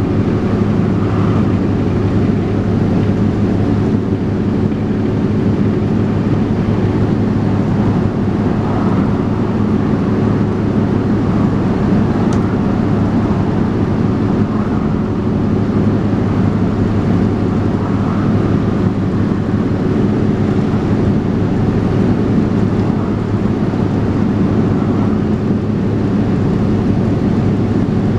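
Dennis Trident 2 double-decker bus's diesel engine running at a steady pitch, heard from on board the bus, with a brief tick about twelve seconds in.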